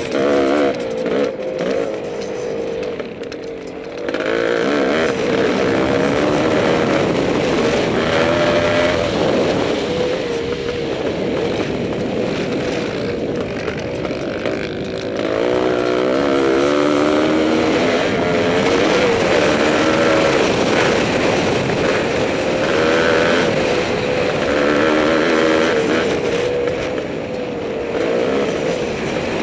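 Yamaha IT490's two-stroke single-cylinder engine under hard riding: revving up and backing off again and again through the gears, its pitch rising and falling. The engine eases off briefly about three seconds in, then pulls hard again.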